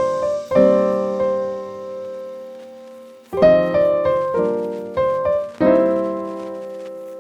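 Background piano music: slow chords struck a few times, each left to ring and fade.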